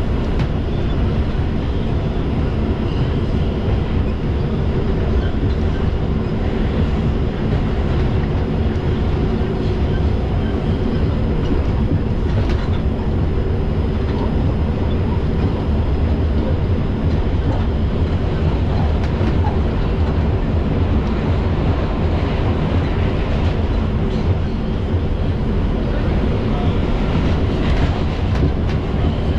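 Inside an R142 subway car running between stations: the steady rumble of the wheels on the track, with a few faint clicks now and then.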